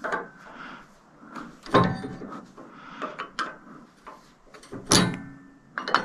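Metal knocks and clanks, the two loudest about two seconds and five seconds in, some ringing briefly, with lighter taps in between: metal parts being handled and knocked together.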